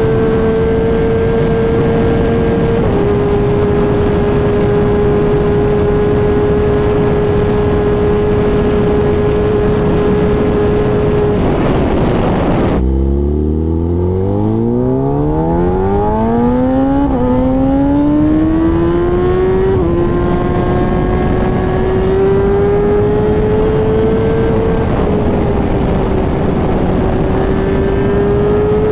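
Sport motorcycle engine running at high, steady revs under a rush of wind. About 13 seconds in the revs and wind drop away suddenly, then the engine pulls back up in a rising whine with two quick gear shifts, and settles to a steady cruise.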